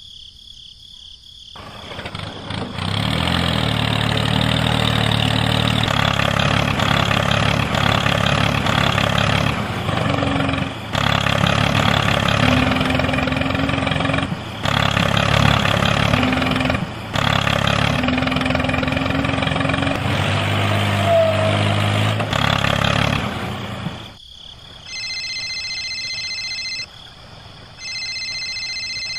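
Tractor engine running, coming up about two seconds in, dropping out briefly a few times and stopping about 24 seconds in. Then a phone ringtone sounds in two bursts near the end.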